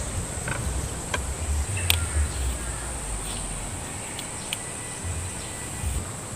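Insects chirring steadily in a high, even drone, over low rumbling and a few scattered clicks.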